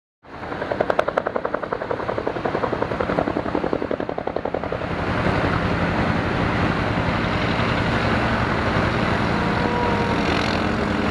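A motor running, with a fast even pulsing for the first few seconds that settles into a steady sound.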